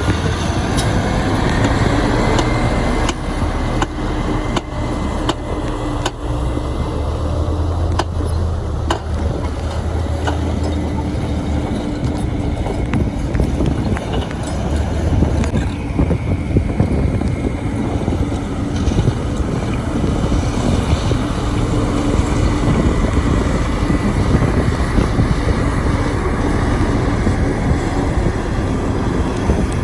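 Diesel engine of heavy earthmoving machinery running steadily under load, with a few sharp knocks in the first ten seconds or so.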